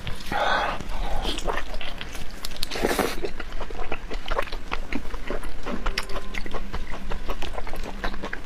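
Close-miked eating sounds: wet chewing and lip smacking with many small clicks, and a couple of longer slurps, one about half a second in and one around three seconds.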